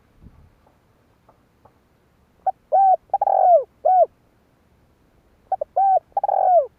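Spotted dove cooing: two phrases of hollow, rising-and-falling coos, the first about two and a half seconds in and the second near the end, each with a short note, two longer drawn-out notes and a closing note.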